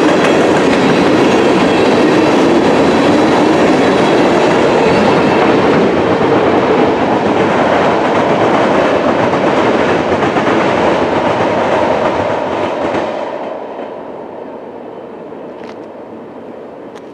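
Freight train of tank cars rolling past, steel wheels clacking on the rails. About thirteen seconds in, the noise falls away sharply as the end of the train goes by, leaving a much fainter sound.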